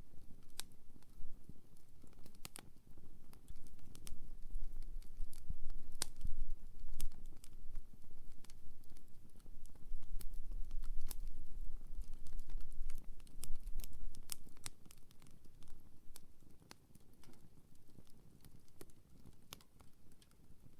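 Wood campfire crackling, with irregular sharp pops and snaps over a low rumble that swells in the middle and fades toward the end.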